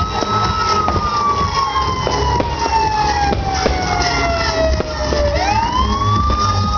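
A siren wailing: its pitch holds high, slowly falls over about four seconds, then winds back up about five seconds in. Under it runs a dense crackle of fireworks bangs and a steady rumble.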